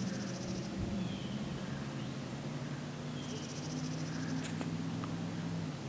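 Small birds calling: a high, rapid trill near the start and again a few seconds in, with a few short falling chirps, over a steady low hum.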